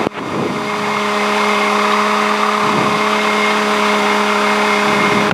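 Cessna 150's Continental O-200 four-cylinder engine and propeller running at a steady speed: an even drone with a constant hum.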